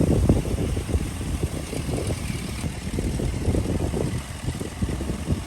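A heavy diesel engine of construction machinery running, a dense low rumble that eases slightly after the first second.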